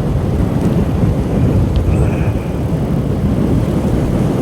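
Riding a motorcycle, heard from the rider: a steady low rumble of wind buffeting the microphone mixed with engine and road noise.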